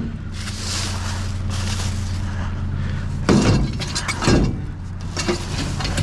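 Glass and junk clattering and breaking as items are pulled out of a dumpster, with sharp crashes about three and four seconds in.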